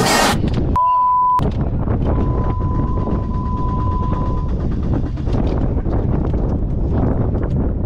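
A short, loud censor bleep about a second in, then a Chrysler PT Cruiser's engine running, heard from inside the race car's cabin.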